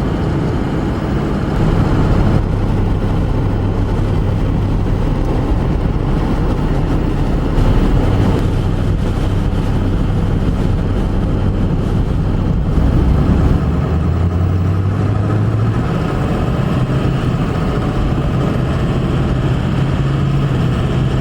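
A car driving, heard from inside the cabin: a steady engine hum with constant road and tyre noise, the hum shifting in pitch a few times.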